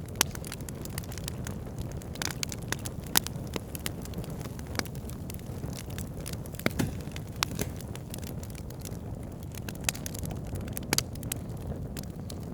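Wood campfire burning: a steady low rumble of the flames with irregular sharp crackles and pops from the burning logs.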